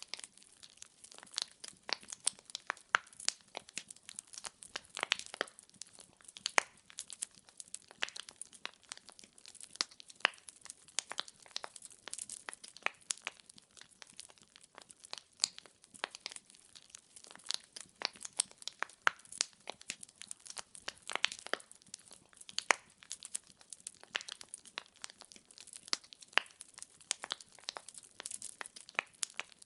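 Wood fire crackling: burning firewood giving off many sharp, irregular pops and snaps, several a second, over a soft hiss of flame.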